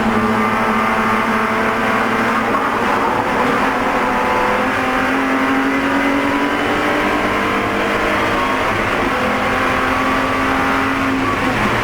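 BMW Spec E46 race car engine running hard at high revs, heard from inside the car. Its pitch climbs slowly and dips briefly a few times, as on throttle lifts or shifts.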